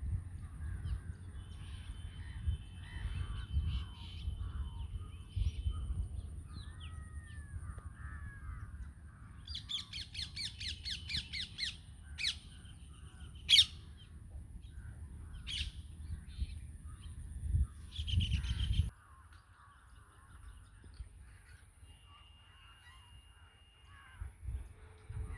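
Several birds chirping and calling outdoors, with a rapid rattling run of notes about ten seconds in and a few sharp, loud single calls after it, over a low background rumble that drops away about three quarters of the way through.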